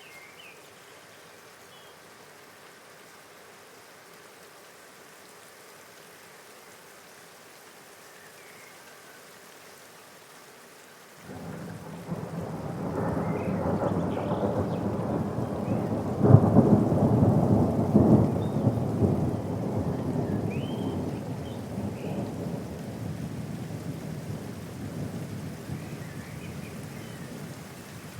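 Steady rain, with a roll of thunder coming in about a third of the way through. The rumble builds to a loud crack a few seconds later, then slowly dies away under the rain.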